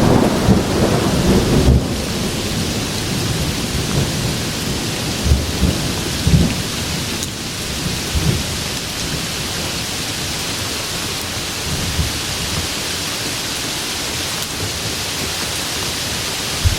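Steady rain falling, with a low rumble of thunder in the first couple of seconds that dies away and a few fainter low rumbles a few seconds later, leaving an even rain hiss.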